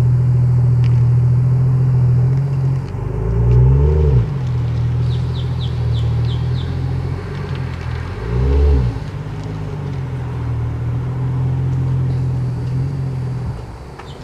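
Car engine idling with a steady low hum, blipped twice, about four seconds in and again around eight and a half seconds, each rev rising and falling back to idle.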